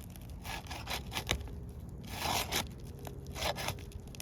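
Brittle roof shingle being pried up gently to get at a nail: short bursts of scraping and tearing, the longest about two seconds in, with a sharp click a little after one second.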